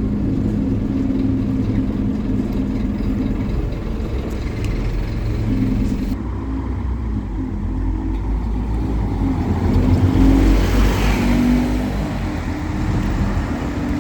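Scania N270UD OmniCity double-decker bus's diesel engine running under way, its pitch stepping and gliding up and down through the gears. It gets louder with more rushing noise about ten seconds in, as it pulls harder.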